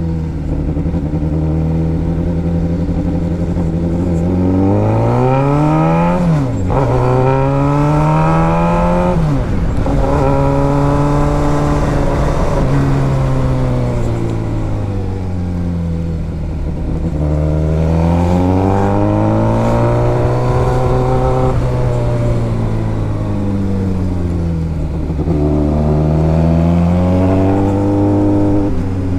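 Motorcycle engine under way, its pitch climbing under throttle and falling back as it eases off, with two quick upshifts about a third of the way in where the pitch drops sharply.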